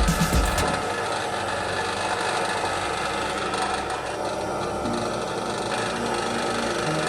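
A workshop power tool running steadily, with a few loud low knocks in the first half-second.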